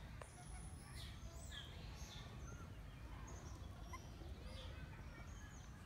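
Many short bird chirps and whistles calling here and there in the forest, over a steady low rumble.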